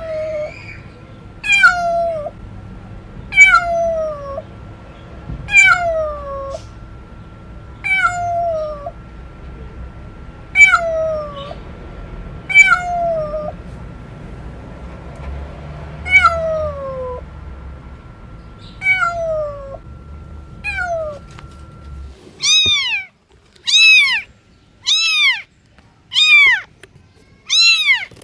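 Domestic cats meowing loudly and repeatedly. First come long meows that fall in pitch, about one every two seconds, over a steady background hum. After about 22 seconds the hum stops and shorter meows that rise and fall follow, about one a second.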